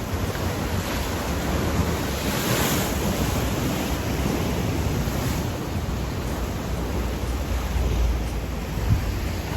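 Rough Atlantic waves washing and breaking in a steady roar, with wind buffeting the microphone. One wave crashes louder about two and a half seconds in, and there is a brief thump near the end.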